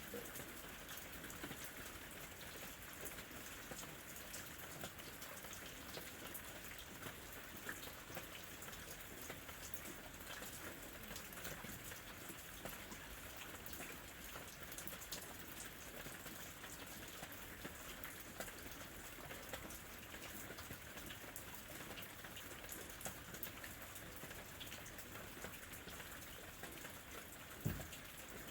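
Steady rain falling, with many separate drops ticking on surfaces, and one louder low thump near the end.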